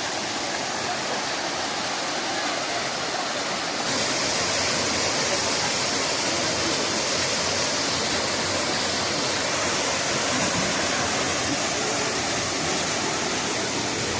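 Waterfall: the steady rush of falling water, growing louder and brighter about four seconds in.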